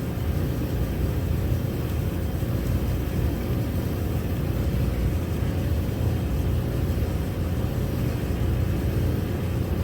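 2010 Dodge Grand Caravan's 3.3-litre V6 idling steadily.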